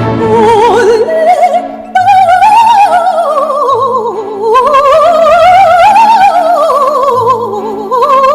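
A woman singing long phrases with a wide vibrato, her voice sliding down and then back up, over a steady sustained accompaniment.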